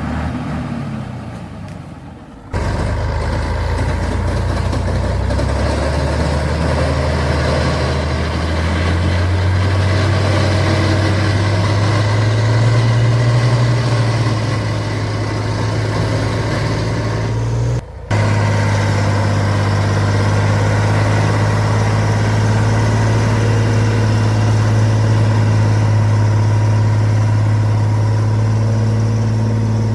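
Heavy truck engine running steadily at low revs, its pitch creeping up slightly around the middle, with a brief break about two-thirds through.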